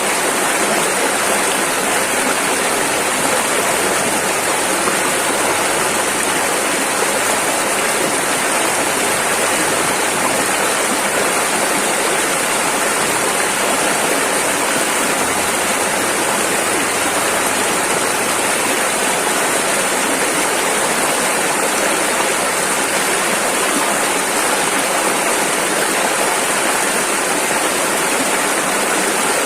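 A fast-flowing river rushing over rapids, with a steady, unbroken water noise.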